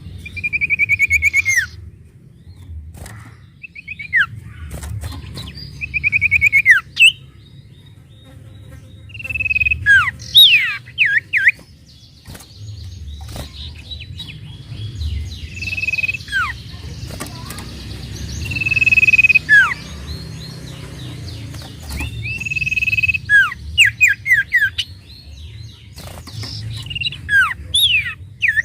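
Sirtu songbird singing in repeated phrases: a fast buzzy trill, then sharp whistles sliding steeply down in pitch, with short pauses between phrases. A steady low hum runs underneath.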